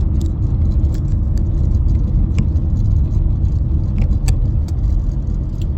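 Steady low road and engine rumble inside a moving car, with a few small clicks and rattles scattered through it.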